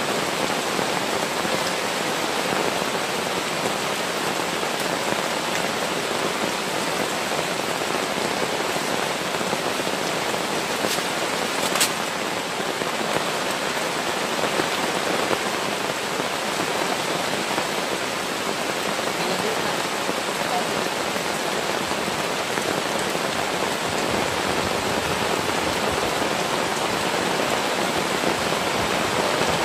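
Heavy rain falling steadily, an even hiss of rain on surfaces, with one sharp tap about twelve seconds in.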